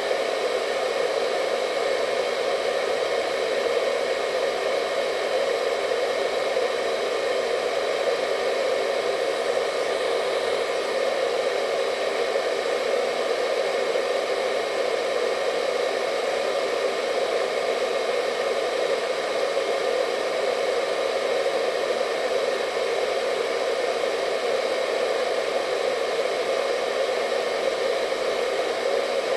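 Hair dryer running steadily: a constant airy blowing with a faint high whine from its motor and fan, no change in speed.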